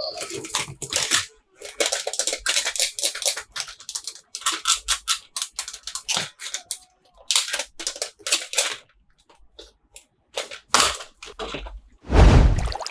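Plastic toy packaging being handled and opened: a rapid, irregular run of crinkles and clicks with short pauses, then a louder rustle near the end.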